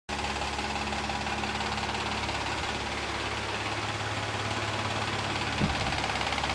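Mazda MX-3 engine running at normal operating temperature with a steady, fast clatter whose cause the owner cannot identify.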